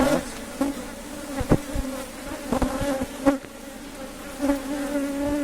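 Honey bees buzzing in a steady, low hum around an open hive, with a few short knocks.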